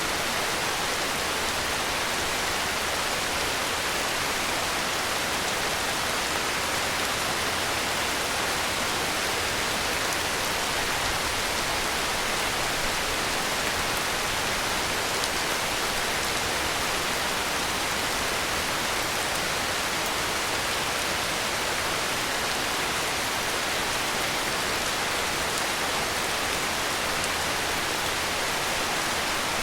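Heavy rain falling steadily: a dense, even hiss with no separate drops, thunder or other sounds standing out.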